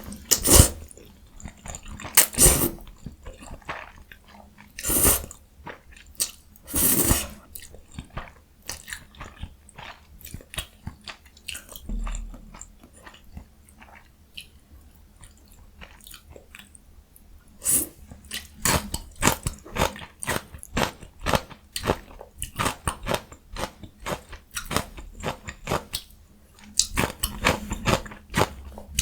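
Close-miked mouth sounds of a person eating jjajang ramyun with young summer radish kimchi. Several loud bites or crunches come in the first seven seconds, then a long run of quick chewing clicks, and another burst of crunching near the end.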